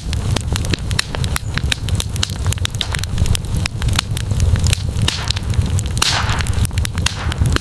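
Campfire crackling: dense, irregular pops and snaps of burning wood over a steady low rumble of the fire, with a brief hiss about six seconds in.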